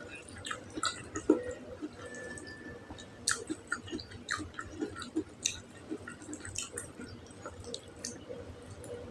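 Close-up wet chewing and mouth smacks of someone eating tender, spicy beef tongue: irregular short clicks and squelches, no talking.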